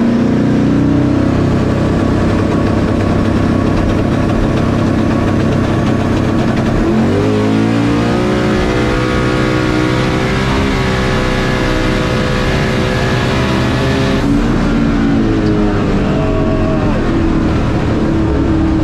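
Boosted LS V8 drag car heard from inside its cabin. It runs at low revs, then revs sharply about seven seconds in and pulls hard at high revs for several seconds. About fourteen seconds in the revs drop and fall away as the car comes off the throttle.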